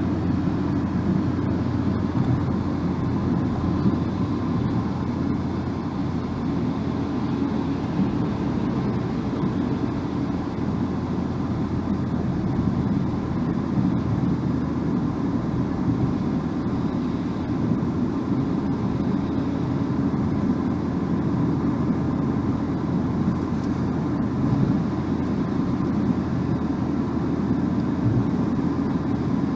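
Steady road noise of a car driving at an even speed: tyre rumble on asphalt with engine hum, a low, unchanging drone.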